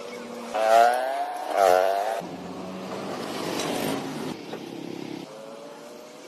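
A motor vehicle engine revs twice in quick succession, its pitch rising and falling, then runs more quietly and steadily.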